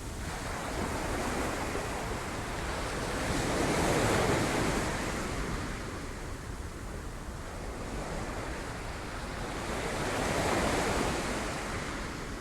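Sea waves breaking on rocks: two surging washes that build and fade, the first about four seconds in and the second near the end.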